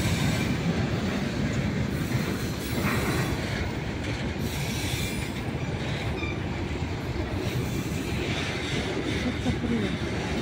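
A long freight train of boxcars and open gondola wagons rolling past at a steady speed: a continuous rumble of steel wheels on rail, with an electric commuter train running on the nearer track.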